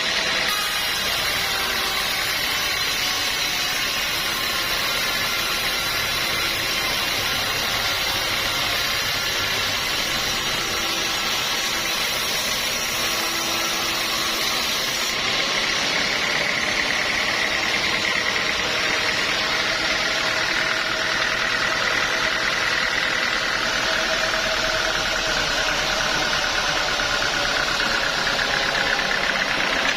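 Sawmill machinery running steadily: a continuous mechanical drone with several steady tones, a higher tone drifting slowly in pitch in the second half.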